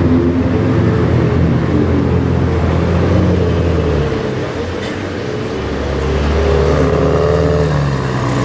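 A supercar engine running at low revs, a steady deep hum that drops away about four seconds in and builds up again shortly after.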